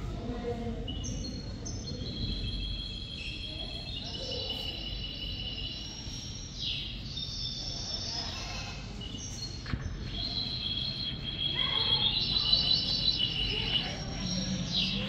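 Several birds chirping and singing, with many short high whistled notes and trills overlapping, over a steady low background rumble.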